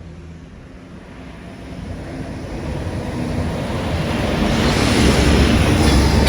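Heavy truck approaching and passing close, its engine rumble and tyre noise growing steadily louder over several seconds and peaking near the end.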